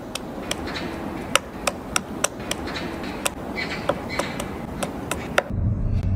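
A run of sharp taps or knocks, irregular, about three a second. Near the end they give way to a steady low rumble.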